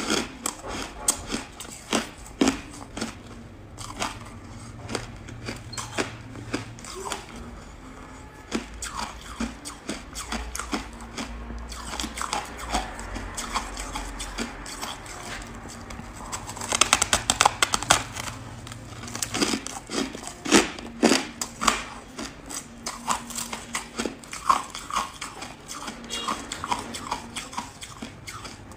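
Close-miked chewing of a crunchy buckwheat ice chunk: many sharp crunches throughout, with a dense run of crunches about halfway through.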